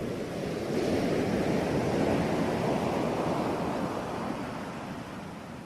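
Sea waves washing in as a soft rushing noise that swells about a second in and slowly dies away.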